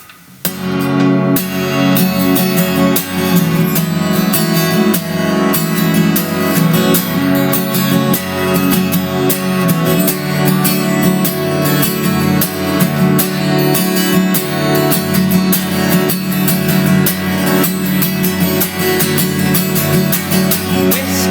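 Acoustic guitar strummed steadily, starting about half a second in, playing a song's instrumental introduction without singing.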